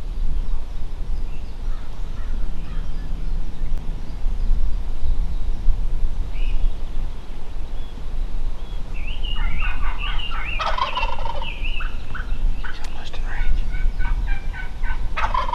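Wild turkey gobbler gobbling: one long rattling gobble a little past the middle, then more rapid rattling calls toward the end, over a steady low rumble.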